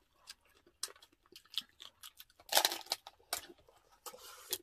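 Chewing and crunching of roast pork (lechon), with meat torn apart by hand: scattered clicks and crackles and a louder burst of crunching about two and a half seconds in.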